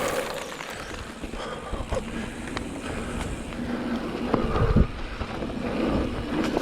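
Vitus Sommet mountain bike rolling down a dirt trail: tyre noise and the bike rattling over rough ground, with scattered clicks and one heavy thump a little past halfway.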